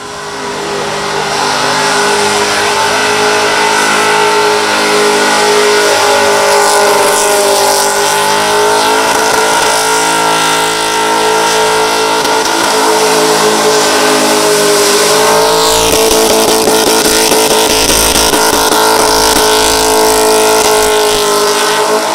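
Holden VX Commodore SS's V8 held at high revs through a burnout. The pitch stays nearly steady, with the hiss of the spinning rear tyres over it. It fades in at the very start.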